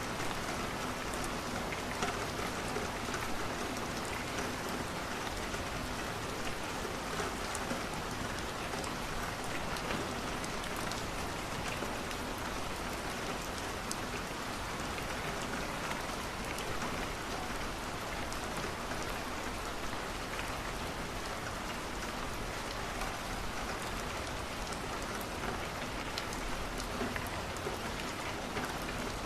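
Steady rain falling on a window, an even hiss with scattered small ticks, mixed with light crackling from a wood fire.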